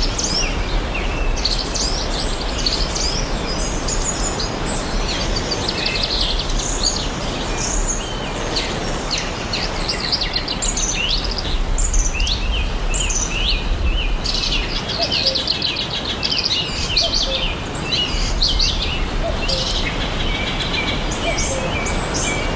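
Several songbirds singing and calling at once, with rapid trills and short chirps overlapping throughout, over a steady rushing background noise of forest ambience.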